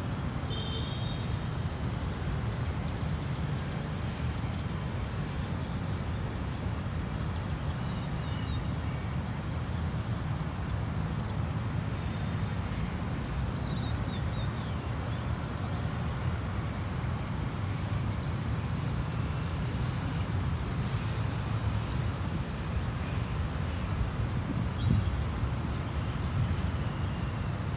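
Steady low outdoor rumble with a few faint, high chirps scattered through it.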